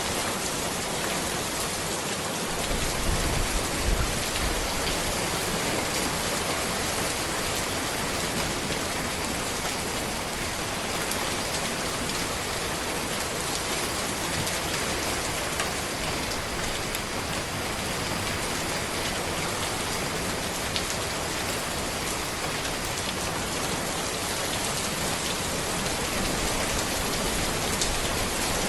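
Steady rain falling on a road and trees, an even dense hiss of drops with a few louder patters about three to four seconds in.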